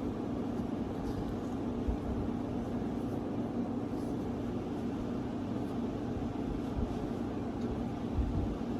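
Steady low machine hum with an even background hiss, unchanging throughout.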